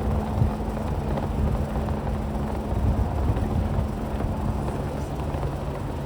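Fireworks bursting overhead, heard as a continuous low rumble with irregular deeper thuds. A steady low hum runs underneath.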